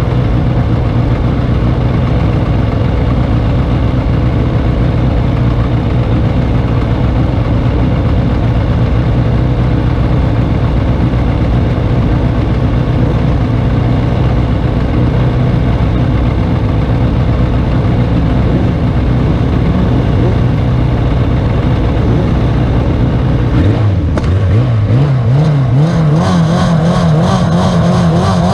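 Classic superbike motorcycle engines running steadily, then one revs up and accelerates, its pitch rising in steps through the gears about 24 seconds in.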